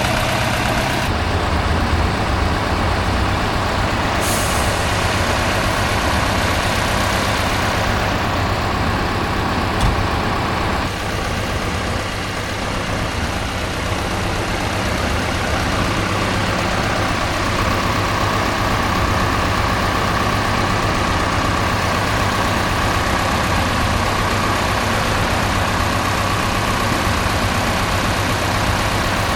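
Heavy off-road competition truck's diesel engine running steadily under load, with a short air hiss about four seconds in and a single knock near ten seconds; a steady whine rises out of the engine noise in the second half.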